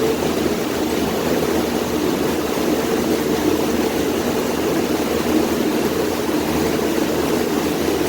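Passenger launch boat's engine running steadily under way, a loud, even drone heard from the back of the boat near the engine.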